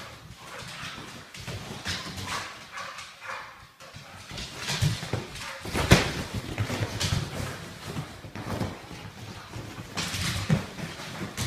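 A dog whining and barking among irregular clattering knocks, with one sharp, loud knock about six seconds in.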